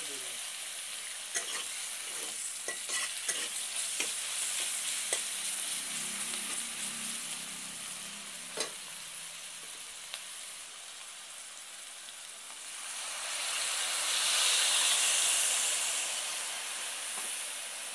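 Sliced onions and garlic sizzling in hot oil in a metal pot, with a spatula scraping and clicking against the pot as they are stirred. About 13 seconds in the sizzle swells louder for a few seconds as something is tipped in from a bowl.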